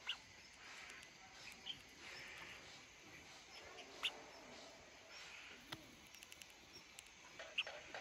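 Collared finchbill giving a few faint, short chirps over a near-quiet background.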